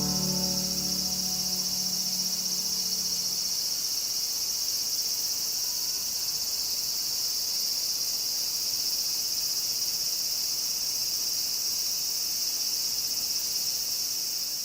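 Dense, steady, high-pitched chorus of summer insects.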